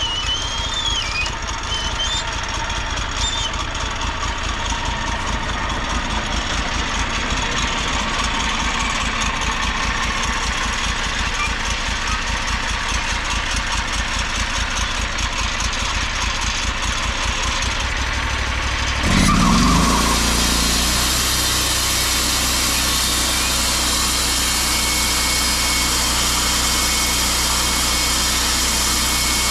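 An engine idling with a steady low pulse. About nineteen seconds in it surges briefly, then settles into steady running at a higher speed.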